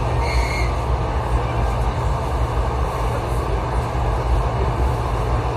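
Electric commuter train running along the track, heard from inside the carriage: a steady low rumble and rolling noise of the wheels on the rails. A short high-pitched tone sounds briefly about half a second in.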